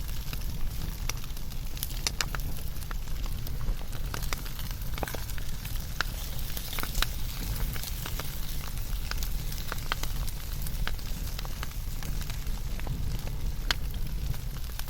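Wood fire burning, with irregular sharp crackles and pops over a steady low rumble and hiss.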